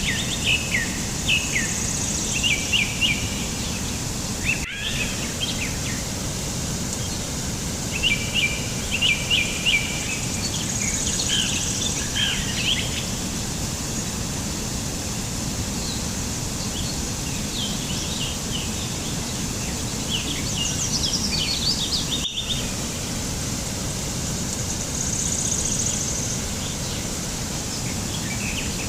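Small birds chirping in clusters of quick, repeated high notes: around the start, again from about 8 to 13 seconds in, around 20 to 22 seconds in, and near the end. Behind them runs a steady, even outdoor hiss, and the sound drops out briefly twice, about 5 and 22 seconds in.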